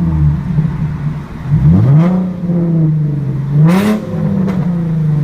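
Nissan 370Z's 3.7-litre VQ37VHR V6 running through a loud exhaust, idling with two throttle blips, the revs rising and falling about one and a half seconds in and again near four seconds in.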